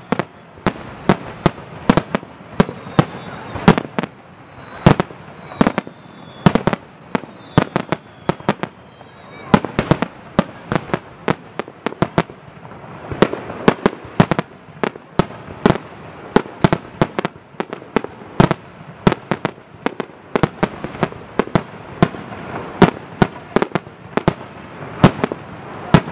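Aerial fireworks shells bursting in rapid succession: dozens of sharp bangs, many less than a second apart. Short falling whistles come through between them during the first third.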